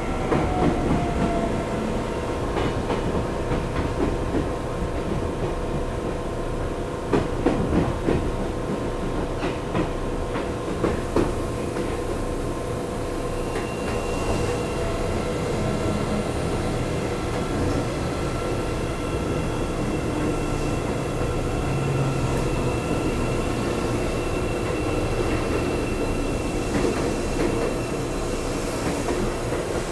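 Inside a Seibu 9000-series electric commuter motor car running on rails: steady rolling rumble and hum, with sharp clacks over rail joints about 7 and 10 seconds in. From about halfway a thin high whine joins in as the train slows and draws into the station.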